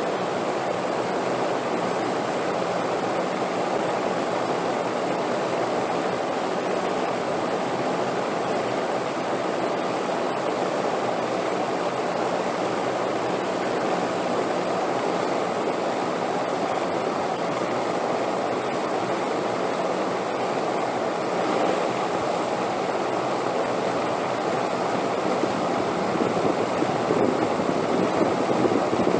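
Wind blowing as a steady, even rushing noise, growing slightly louder near the end.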